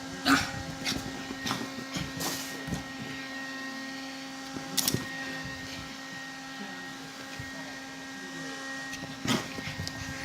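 Small battery mini fan's motor whirring steadily with a constant hum, broken by scattered short sharp snaps and knocks, a cluster of them about a second and two seconds in and again near the end.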